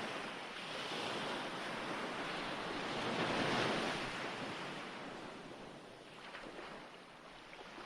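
Recorded ocean surf: the wash of a wave swells to a peak about halfway through, then recedes and fades near the end.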